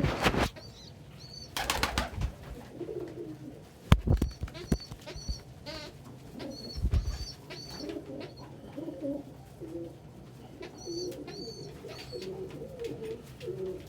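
Pigeons cooing steadily, with short high chirps repeating among them. A few loud knocks and rustles near the start and one sharp knock about four seconds in.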